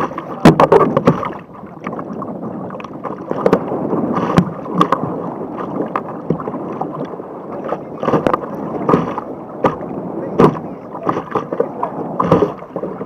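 Sea water rushing and splashing around a surf kayak, with frequent sharp slaps of water against the boat.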